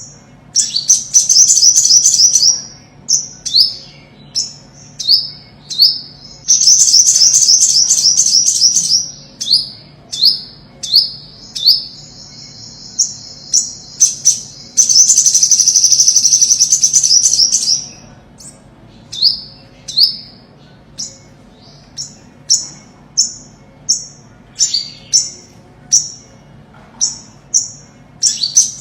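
Olive-backed sunbird singing: high, thin downslurred notes repeated about once a second, broken by several fast trilled runs, the longest lasting about three seconds in the middle.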